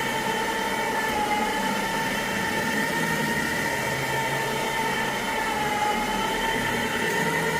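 Carpet-cleaning extraction machine running with a steady high whine over a rushing noise, the whine dipping slightly in pitch twice.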